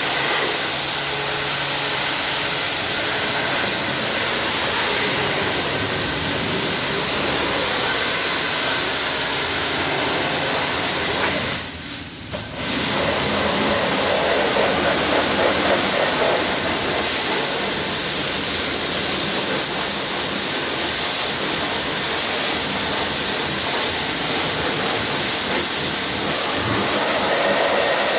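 Pressure washer spraying a steady high-pressure jet of water onto a car, as in a touchless wash, with a brief break about twelve seconds in when the spray stops and restarts.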